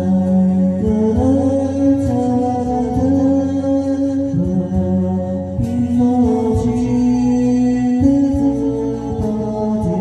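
Karaoke backing track of a Korean ballad playing an instrumental passage, with held chords that change every second or two over plucked notes.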